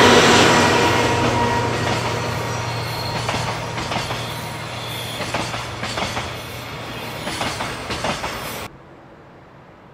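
A JR DF200 diesel locomotive's engine drone fades as it passes, followed by container wagons rolling by with their wheels clicking rhythmically over rail joints, gradually growing fainter. The sound cuts off suddenly near the end.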